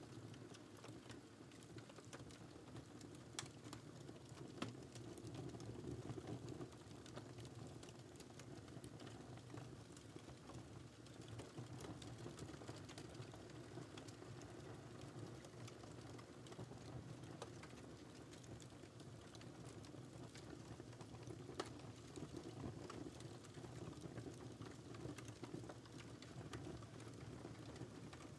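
Wood fire crackling faintly: a steady low burning rumble with frequent small snaps and a few louder single pops.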